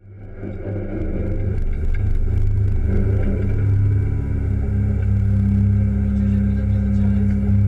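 Renault 5 rally car's engine idling steadily at a standstill, heard from inside the cabin; the sound fades in over the first second.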